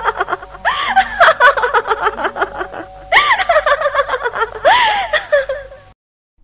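Comedy sound effect of high-pitched, rapid chattering giggles in three bursts, each opening with a rise and fall in pitch; it cuts off suddenly near the end.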